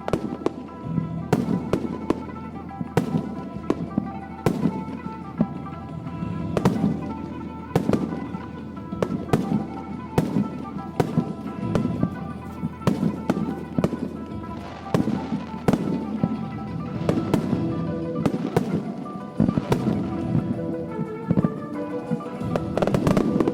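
Aerial fireworks bursting in quick succession, sharp bangs roughly one to two a second with crackling between them, over music played for the show.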